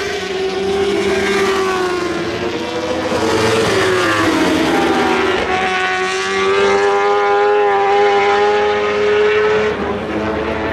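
Superbike racing motorcycle engine at high revs: its pitch holds, falls for a couple of seconds as it slows through a corner, then climbs and holds high again before dropping once more near the end.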